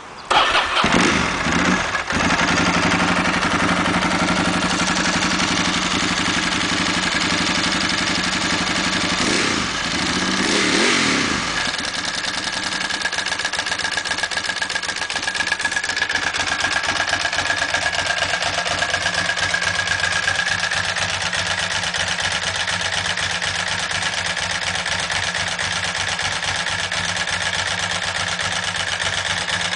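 Ducati 748 superbike with an 853 big-bore kit, its V-twin engine starting at once and running at a fast idle. It is revved twice around ten seconds in, then settles to a lower, steady idle.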